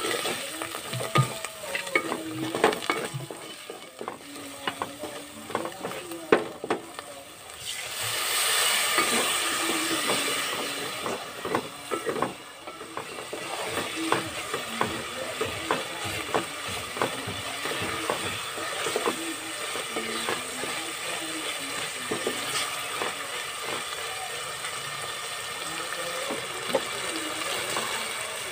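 Onion and spice masala frying in oil in an aluminium pot and stirred with a wooden spatula, which scrapes and knocks against the pot again and again. About eight seconds in, a louder sizzle swells and eases off over a few seconds, and then the stirring and frying go on.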